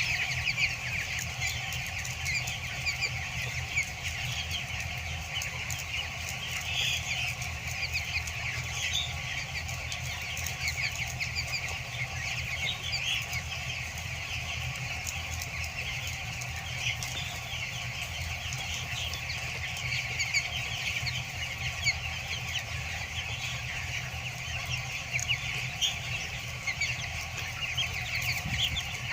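A large flock of 14-day-old broiler chicks cheeping continuously, many short chirps overlapping, over a steady low hum.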